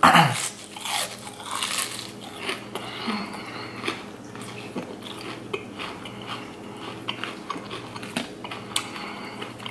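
A bite into a crispy breaded fried shrimp with a loud crunch at the start, then crunchy chewing with many small crackles.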